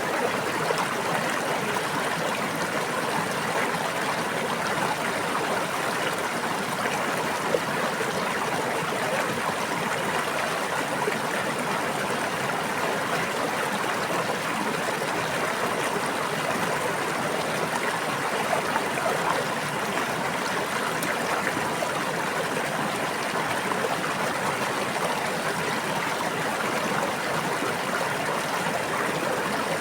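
Steady babbling of a brook: shallow water running continuously over stones, an even rushing with fine gurgles and no pauses.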